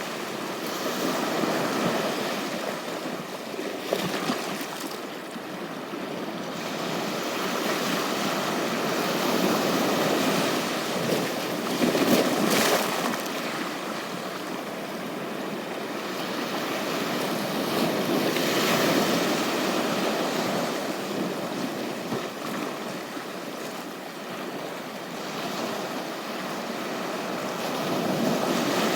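Ocean surf washing onto a beach, the noise of the waves swelling and easing every several seconds, with a couple of brief knocks.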